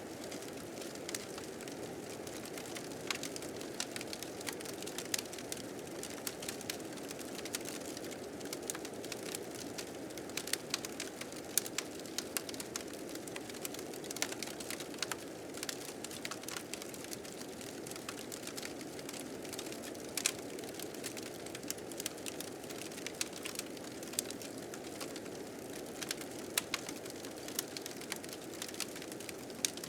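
Fire crackling with many irregular sharp pops, over the steady rushing of blizzard wind.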